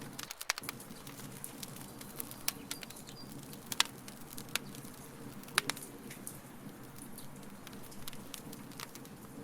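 Wood fire crackling in a fire pit: a steady low hiss with irregular sharp pops, the loudest about four and five and a half seconds in.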